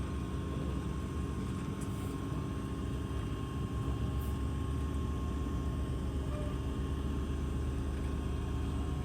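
Train running along the track: a steady low rumble, with a faint steady high tone over it.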